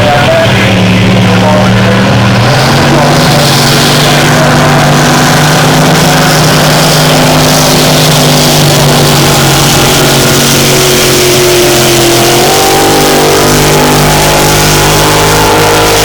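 Supercharged alcohol-burning engine of a displacement race powerboat running hard on a hot lap, a loud steady engine note. Its pitch steps up about two and a half seconds in and shifts again around twelve seconds.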